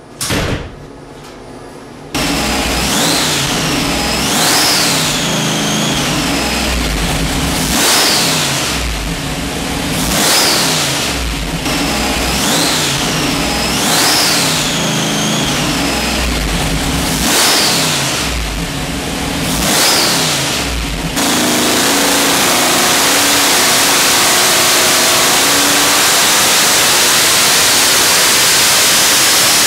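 Nelson Racing Engines' supercharged 588 cubic-inch Chrysler Hemi running on E85 on an engine dyno. It starts about two seconds in and is blipped about every two and a half seconds, with a whine rising and falling each time. About 21 seconds in it goes to full throttle for a steady, loud dyno pull on a smaller blower pulley for more boost.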